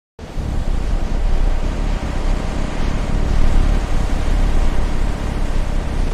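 Jet aircraft engine noise: a loud, steady roar that starts abruptly just after the beginning and cuts off at the end.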